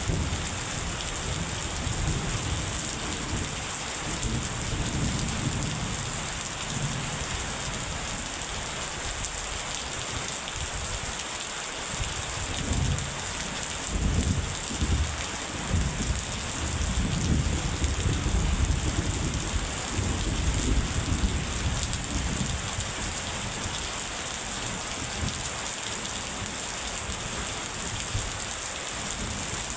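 Steady rain pouring, with rolling thunder rumbling low underneath; the thunder swells and fades, loudest about halfway through.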